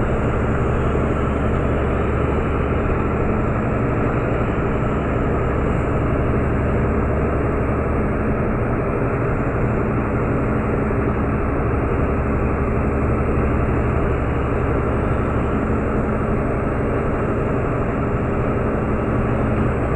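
Meteor hydrofoil's twin diesel engines running at cruising speed: a loud, steady, deep drone that does not change.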